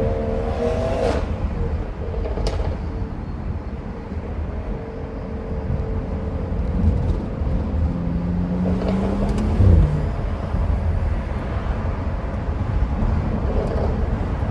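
Steady engine and road rumble from a car being driven. About eight seconds in, a following car's engine note rises and falls as it accelerates, its turbo spooling.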